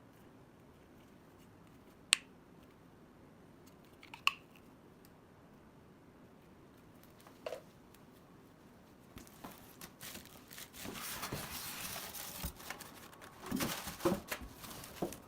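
Handling of plastic vacuum-cleaner attachments: a few sharp, isolated clicks in a quiet room, then from about nine seconds in a stretch of rustling with several knocks.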